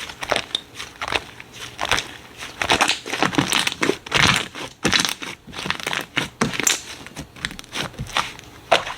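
Slime being squeezed and pressed by hand, giving a dense run of irregular clicks and crackles.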